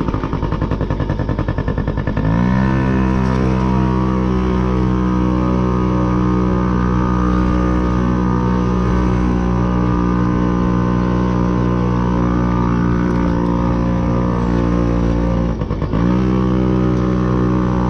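Motorcycle engine under way: a rough, fast pulsing for the first two seconds, then the pitch rises and holds a steady note. Near the end the note breaks off briefly and then picks up again.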